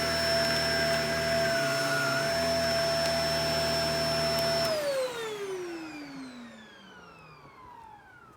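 Shark Professional Powered Lift-Away DLX (NV586) upright vacuum cleaner running steadily with a high whine, then switched off about four and a half seconds in; the motor winds down, its whine falling in pitch and fading over about three seconds.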